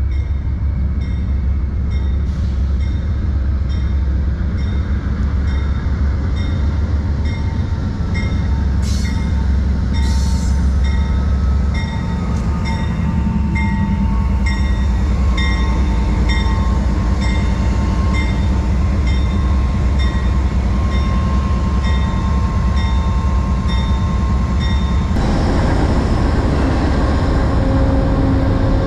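Amtrak diesel-hauled passenger train pulling into the station. The locomotive's deep rumble runs under a bell dinging steadily about every two-thirds of a second, with a thin squeal from the slowing train in the middle. About 25 seconds in, the locomotive comes alongside and a rushing noise swells up.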